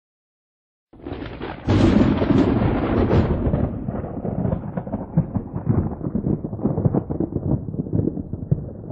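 Thunder: after about a second of silence a thunderclap breaks in, loudest almost at once, then rolls on as a long crackling rumble that slowly fades.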